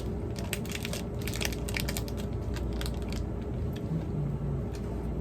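Crackling and crunching of a crispy chocolate cereal bar and its plastic wrapper being handled: dense clicks for about three seconds, then thinning out, over a steady low hum.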